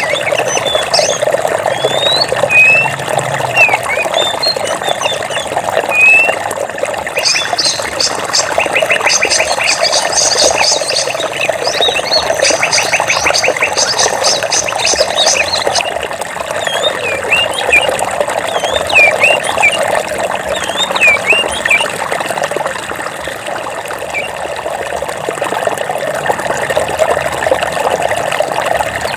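Running stream water with small birds chirping: short rising and falling chirps scattered throughout, and a fast rattling trill from about seven seconds to about sixteen seconds in.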